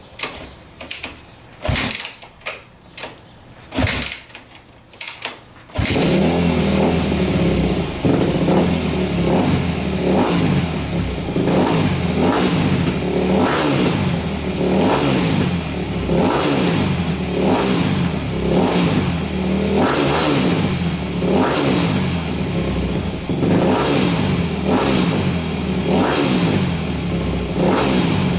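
2004 Yamaha YZ250F's four-stroke single-cylinder engine being kicked over with a few short sudden strokes, catching about six seconds in, then running with the throttle blipped again and again. It starts on a freshly installed crank that replaces one ruined by a seized rod bearing.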